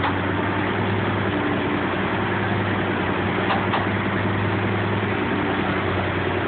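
Heavy vehicle engine running steadily at low speed, with a constant low hum that neither revs up nor dies down.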